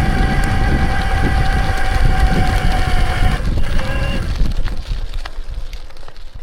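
Mountain-bike ride with heavy wind and tyre rumble on the action camera's microphone. A steady high whine runs over it, drops in pitch a little past three seconds in and stops about a second later. The rumble fades near the end as the bike slows.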